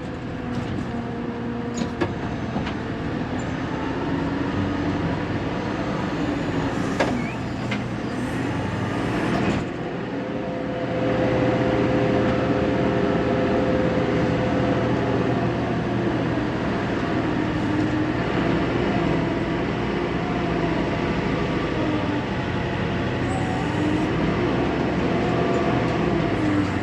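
Fermec TLK760 backhoe's diesel engine heard from inside the closed cab, working under hydraulic load while digging and loading dirt. Its pitch rises and falls with the work, picking up and holding higher from about eleven seconds in, with a few knocks in the first ten seconds.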